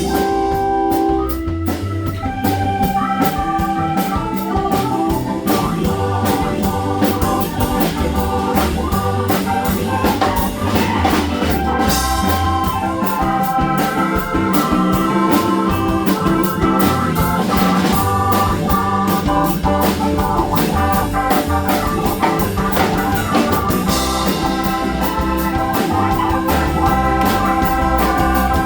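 A band playing live: long held notes over a bass line and a steady drum beat.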